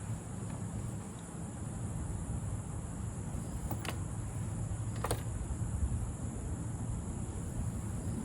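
High, steady drone of insects, likely crickets, over a low rumble, with two sharp clicks about a second apart midway.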